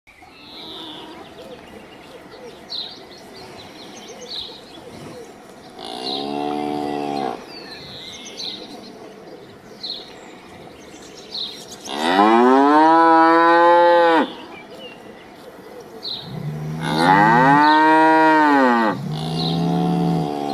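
A cow mooing four times: a shorter, quieter moo, then two long loud moos and a further moo toward the end. Faint high chirps recur between the moos.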